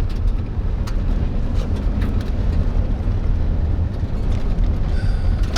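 Road and engine noise heard inside a moving vehicle's cabin: a steady low rumble.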